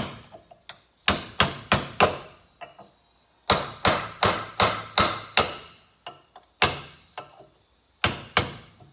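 Hammer striking a metal lock plate on a motorcycle engine case, flattening it out, in quick bursts of sharp metallic strikes: about four, then about seven, then a couple, then three.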